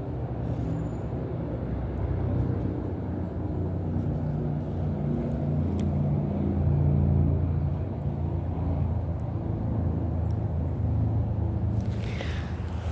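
A motor vehicle's engine running, a low steady hum that swells around the middle and eases off again. Near the end a brief scratchy rustle comes in over it.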